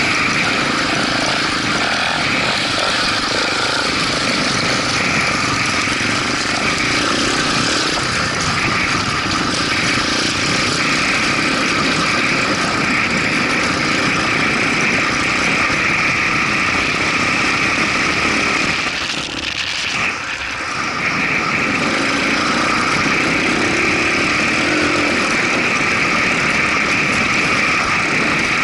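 Motorcycle on the move, its engine running steadily under heavy wind noise on the microphone, with a brief drop in loudness about two-thirds of the way through.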